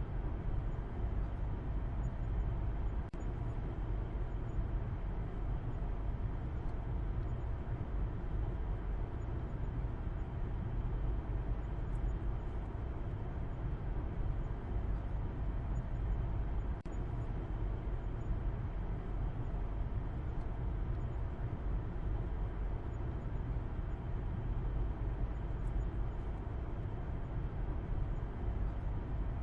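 Steady low rumble of a car driving: engine and road noise held at an even level, deepest in the bass, with a faint hum of steady tones above it.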